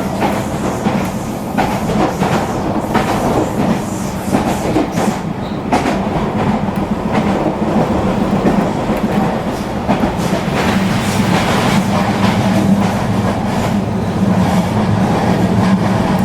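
Motorized toy train running along plastic track: a steady motor whir with continual clicking of the wheels over the track.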